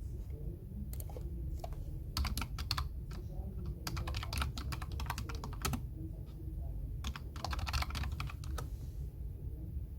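Computer keyboard typing: three short bursts of rapid keystrokes with pauses between them, over a steady low background hum.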